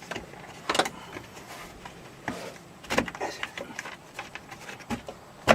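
Parts being forced and worked by hand during an air-conditioner fan motor replacement: a few sharp knocks and clunks, the loudest near the end, with light scraping in between.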